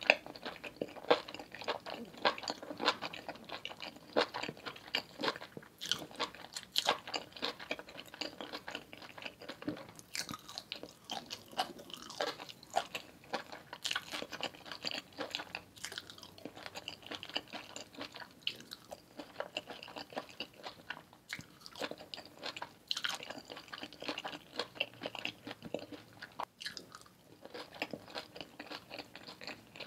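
Close-miked chewing of parmesan-roasted vegetables: a steady run of crisp, wet mouth clicks and crunches, with a few louder bites now and then.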